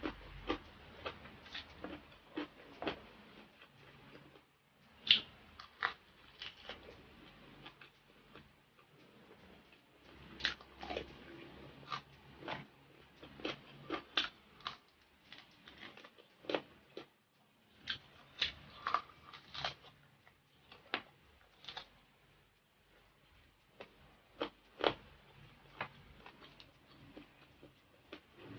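Close-up chewing and biting of crispy fried pork skin, with irregular sharp crunches and wet mouth sounds.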